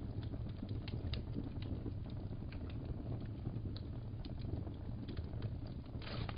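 Wood fire crackling in a fireplace: irregular sharp pops and snaps over a steady low rumble, with a brief rustle near the end.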